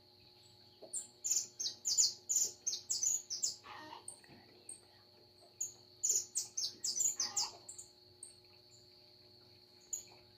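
Small birds chirping and singing at dawn: two bursts of rapid high chirps, the first about a second in and the second about six seconds in, with scattered single notes between them. A steady high tone runs underneath.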